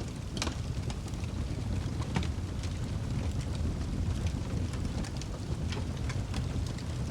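Wood fire burning in a fireplace: a steady low rumble of the flames with scattered sharp crackles and pops of the burning logs.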